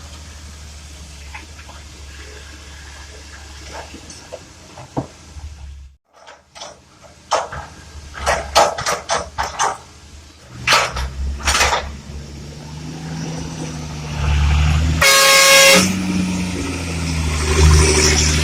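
Heavy diesel engine idling steadily, then after a break a run of sharp knocks and clatter as loading goes on. Then engine sound builds and a horn sounds once for about a second.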